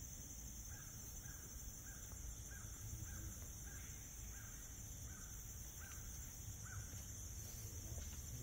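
A bird calling about ten times in an even series, a little under two calls a second, stopping about 7 seconds in. Under it runs a steady, high-pitched insect chorus.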